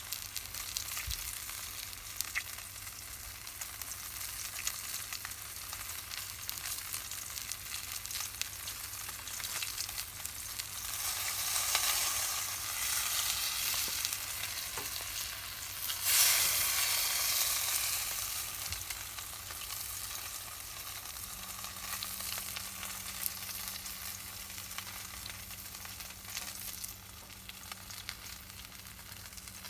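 Crackling and sizzling of a wood campfire with pork roasting over it: a dense patter of small crackles and hiss. It swells louder twice, about eleven and sixteen seconds in.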